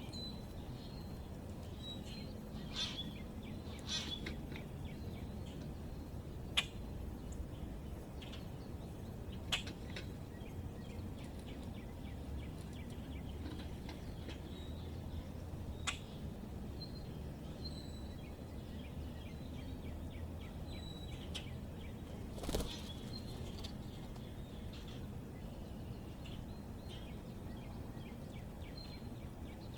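Small songbirds chirping faintly now and then over a steady low rumble, with a handful of sharp taps or clicks spread through.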